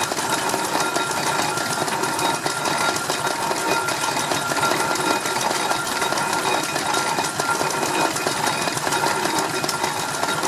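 Vintage stationary engine running steadily with a fast, even mechanical clatter.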